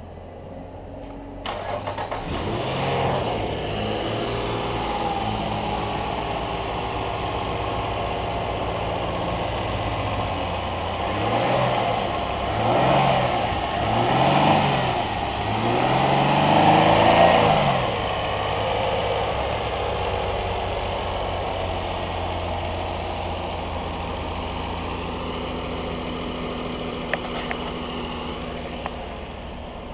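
2016 Nissan Pathfinder's 3.5-litre V6 engine starting about a second and a half in and idling, then revved three times around the middle, each rev rising and falling, before settling back to a steady idle.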